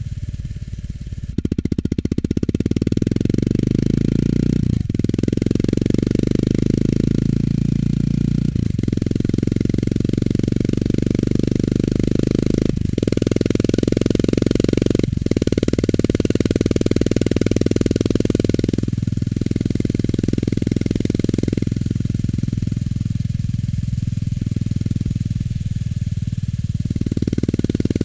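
Honda GB350 S's air-cooled single-cylinder engine heard through its stock muffler while riding, a steady pulsing exhaust thump. It breaks off briefly four times in the first half, as at gear changes, and runs softer on a lighter throttle for the last several seconds.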